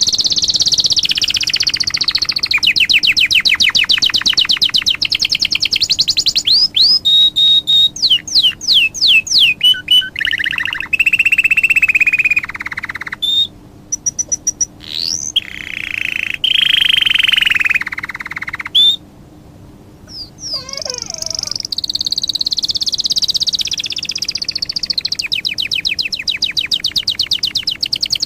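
A songbird singing: long fast trills, whistled notes and chirps, with a short pause about two-thirds of the way through.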